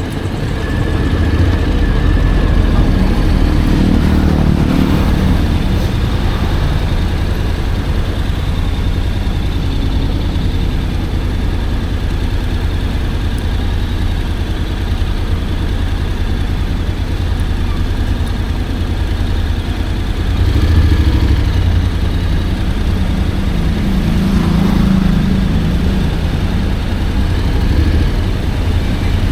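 Honda X-ADV 750 parallel-twin motorcycle running on the move, a steady low rumble that swells louder a few times as it pulls.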